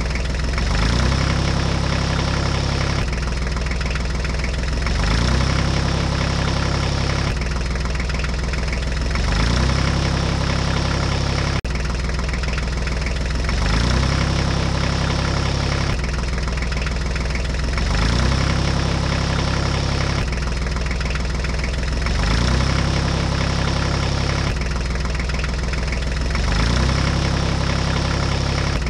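Diesel tractor engine idling with a low, knocking beat, a recorded clip looped so that the same pattern repeats about every two seconds.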